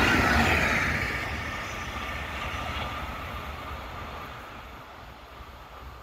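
A passing train moving away, its rumble and a high whine fading out over a few seconds, the whine dropping slightly in pitch.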